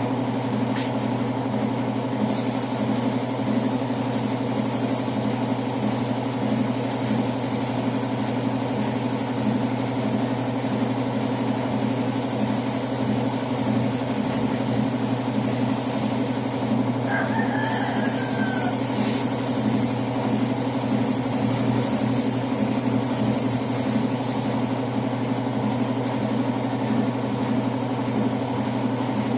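Air compressor running steadily, with the hiss of a spray gun laying on paint; the hiss cuts out briefly just after the start and again a little past halfway as the trigger is let go.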